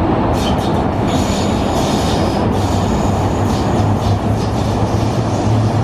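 An MTR M-Train (Metro-Cammell electric multiple unit) running past on the track with a steady rumble of wheels on rail. A thin high-pitched wheel squeal comes in about a second in and fades out near four seconds, with a few clacks over rail joints.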